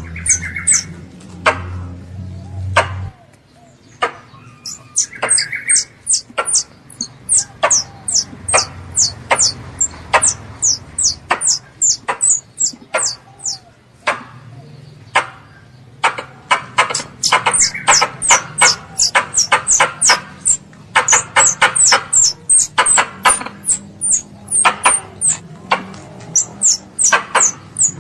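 A young squirrel calling for its mother: a fast run of short, high, falling chirps, several a second, mixed with sharp clicks and a few short, lower buzzy calls.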